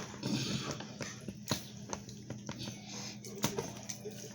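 Seasoning salt being shaken from its container over raw fish fillets: a short hiss of sprinkling near the start, then scattered light clicks and taps of the shaker and handling.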